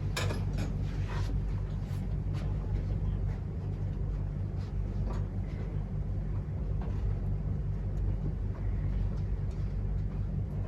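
Steady low hum with scattered light knocks and shuffling sounds of people moving about a room.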